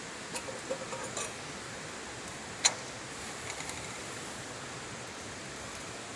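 Campfire burning: a steady hiss with scattered crackles and pops of burning wood, one sharp loud pop about two and a half seconds in.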